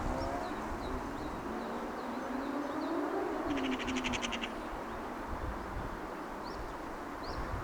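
Small birds chirping over a steady low hum of city background noise, with a rapid high trill a little past the middle. A distant motor's tone rises then falls in pitch during the first half.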